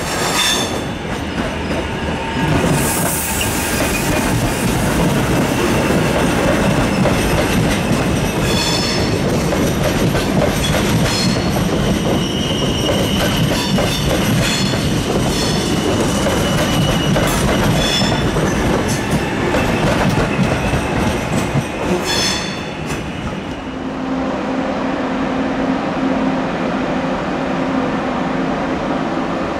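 A train running past on the station tracks: a loud, dense rolling rumble broken by several brief high-pitched wheel squeals. Near the end the rumble falls away, leaving a steady low hum.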